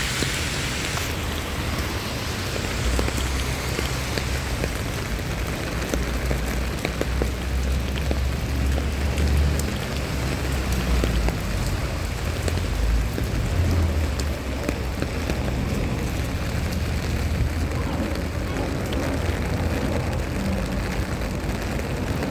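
Steady rain falling, with many scattered drop ticks over an even hiss and a low rumble underneath.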